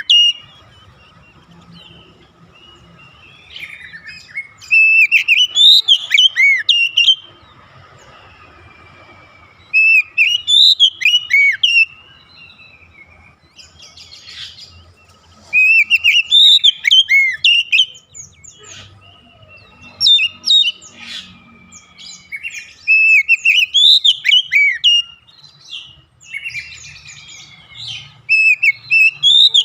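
Oriental magpie-robin (kacer) singing loud phrases of quick, varied whistles and chirps. Each phrase lasts about two seconds and comes again every few seconds, with short pauses between.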